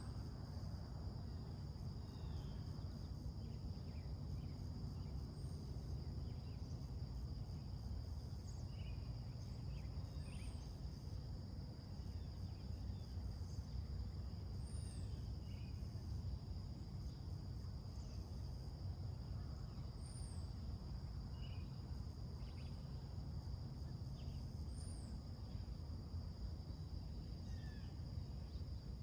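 Steady high-pitched insect chorus of summer crickets, with birds chirping now and then: a short high chirp repeating about every five seconds and scattered calls lower down, over a low steady background rumble.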